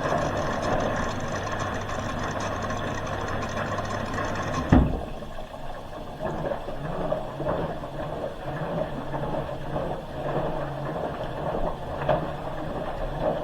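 Hoover H-wash 300 Plus washing machine drawing in water for the softener rinse, a steady rush of water over a low hum, which stops with a thud about five seconds in. After that the drum turns, churning the load in the rinse water.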